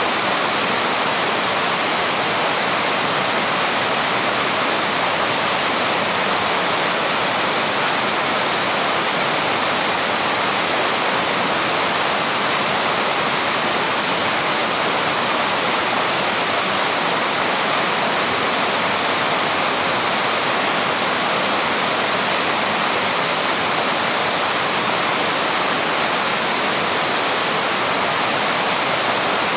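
Small waterfall: water pouring and rushing steadily, an even, unbroken hiss with no changes.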